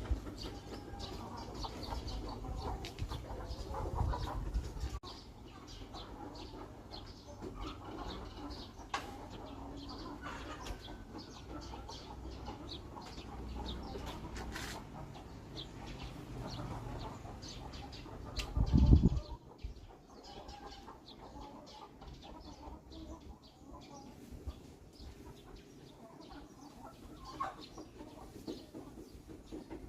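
Outdoor ambience with chickens clucking in the background, scattered rustles and clicks, and one loud low thump a little past halfway, after which it is quieter.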